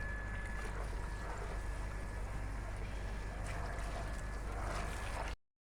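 Steady rain falling, heard as an even rushing noise over a low rumble, with a faint thin steady tone in the background. It cuts off suddenly near the end.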